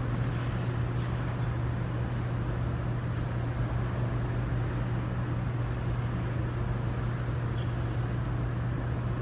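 Steady low hum and rumble of the cathedral's background noise, with a few faint small ticks.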